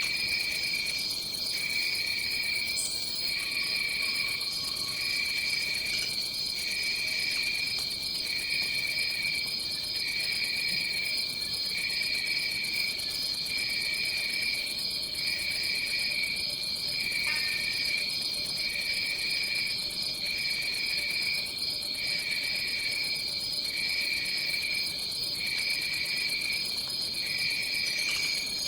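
Tropical insect chorus: a steady high trill, with a second, lower trill that repeats in phrases about every one and a half seconds.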